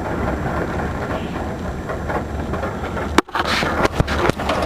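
Steady low noise of a vehicle driving across a field, with wind on the microphone; a sharp click and a brief dropout about three seconds in.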